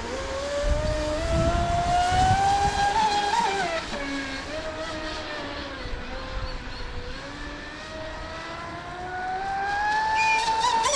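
Brushless electric motor of a large RC speedboat, a Pro Boat Supersonicwake 48, whining as the boat runs laps. The pitch climbs, sags to a low about two-thirds of the way through as the boat slows, then rises again near the end, over a low rushing noise.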